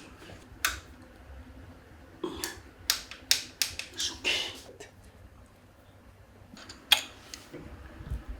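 Scattered sharp clicks and taps of hand tools and metal engine parts being handled: a cluster in the middle and a single louder click near the end.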